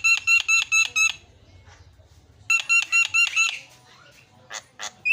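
Javan myna calling in fast runs of repeated, harsh, evenly spaced notes, about six or seven a second. Two runs are split by a pause of about a second and a half, and short sharp chattering notes follow near the end.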